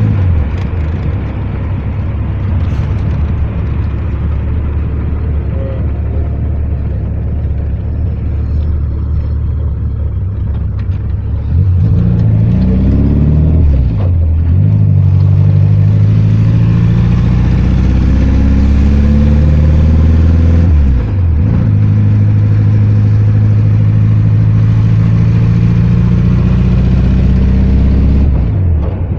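A vehicle engine pulling through the gears. Its pitch climbs, then drops sharply at a shift about 14 seconds in, again about 21 seconds in, and once more near the end, with steady running in between.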